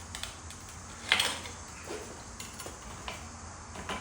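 Metal bike parts being handled, giving several light metallic clinks and taps, the loudest about a second in.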